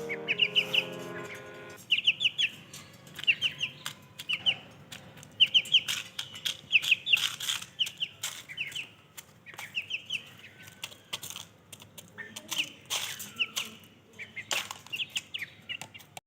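Chickens chirping in quick runs of two to four short, high notes, with scattered sharp clicks and taps among them. Background music stops about two seconds in.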